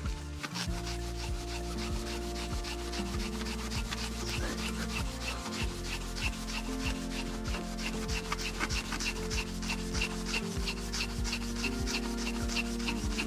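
A microfibre strip with Autosol polish is pulled back and forth around a crankshaft journal, a fast, even rubbing of about four strokes a second that polishes surface rust off the journal. Background music with sustained chords plays underneath.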